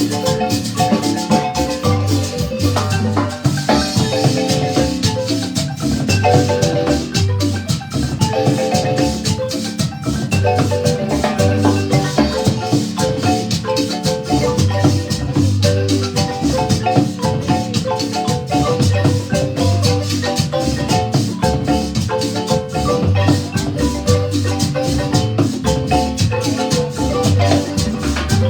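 Guatemalan marimba ensemble playing a lively piece: fast rolled wooden-bar melodies over a steady, regular bass pulse, with rattle or shaker percussion behind.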